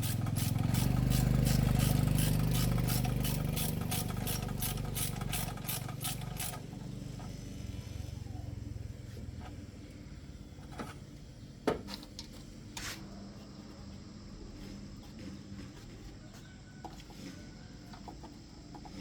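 An engine running with a fast, regular ticking, which is shut off about six seconds in and winds down. Then come a few scattered clicks and one sharp knock of tools or parts being handled.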